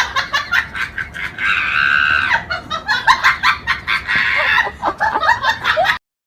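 An animal's rapid, repeated high-pitched calls, quick chattering pulses with one longer held call about two seconds in. The sound cuts off suddenly just before the end.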